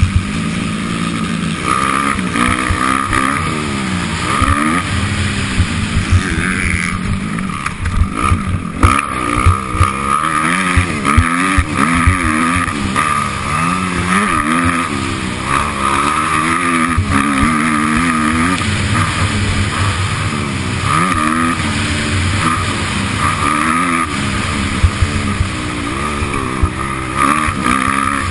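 Motocross motorcycle engine racing, its pitch climbing and dropping again and again as the throttle is worked through the track, with frequent short knocks.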